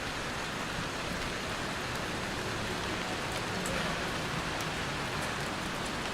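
Steady rain falling on hard surfaces, with scattered sharp drop ticks.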